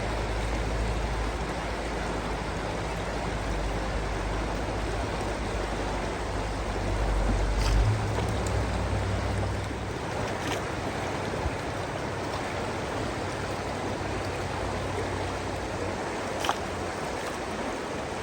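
Steady rushing of river water, with a low rumble underneath that stops about ten seconds in and a few faint clicks.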